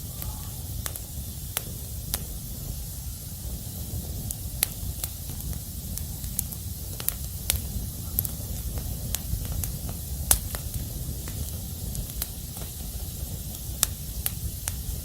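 Firewood fire burning: a steady low rumble and hiss with sharp, irregular crackles and pops.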